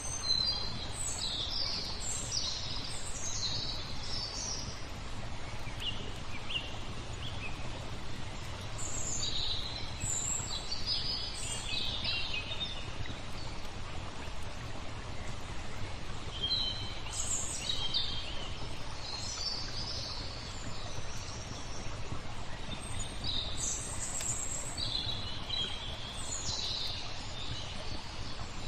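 Small songbirds chirping and twittering in four bouts, a few seconds each, over a steady low rush of flowing water.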